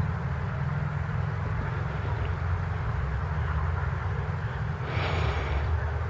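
Honeybees buzzing steadily at a hive, a low hum. About five seconds in, a brief rustling noise sounds over it.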